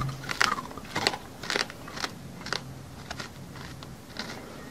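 Close-miked crunching chews, about two a second at first and sparser after about three seconds: exaggerated mouth-eating sounds of someone biting and chewing something crunchy.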